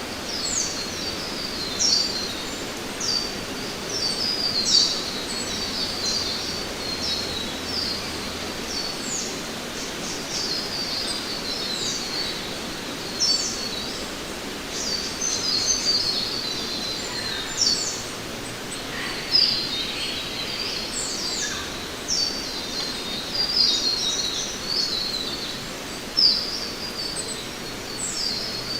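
Many small birds chirping and twittering in quick, overlapping high calls, over a steady background hiss of the forest.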